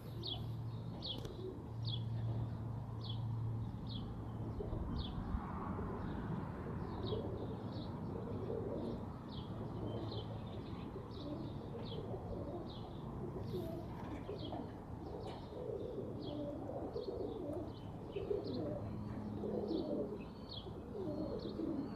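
Pigeons cooing, with a steady run of short high chirps, about two a second.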